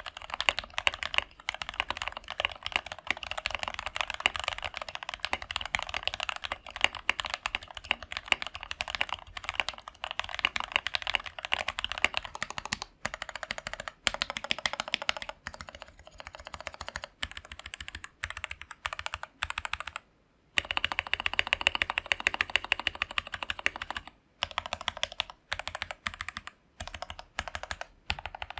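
Fast typing on a VX5 Pro mechanical keyboard fitted with Jwick Yellow linear switches: a dense, continuous patter of keystrokes, with short pauses about twenty seconds in and again around twenty-four seconds.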